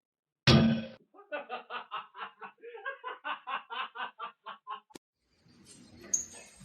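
A loud sudden noise, then a long run of rapid, even, pitched laughter-like bursts, about five a second, that stops abruptly near the end.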